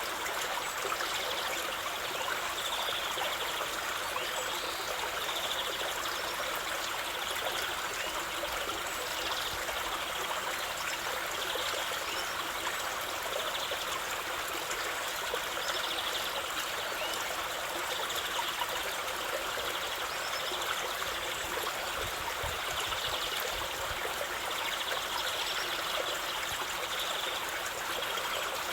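Running water of a stream, a steady, even rush that holds unchanged throughout.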